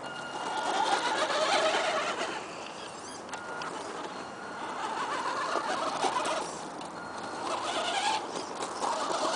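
Tamiya DF02 RC monster truck's 540-size electric motor and gears whining as it is driven over rocks, the pitch wavering with throttle in three swells with brief easings between.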